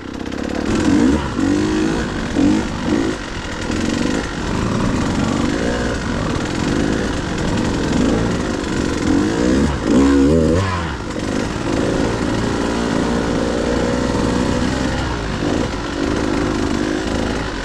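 Dirt bike engine revving up and down as it is ridden over rough trail, its pitch rising and falling again and again, with a sharp burst of revs about ten seconds in.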